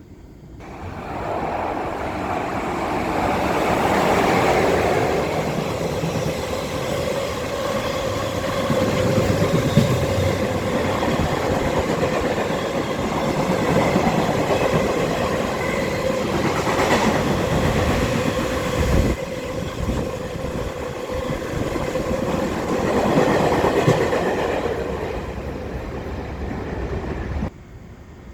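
Freight train passing through the station at speed: a long run of wagons clattering over the rail joints, with a steady tone underneath. The noise builds up within the first couple of seconds and cuts off suddenly near the end.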